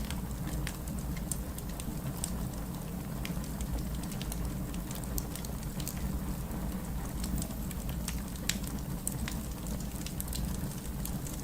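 Fireplace ambience: a wood fire crackling, with sharp pops at irregular intervals over a steady low rumble.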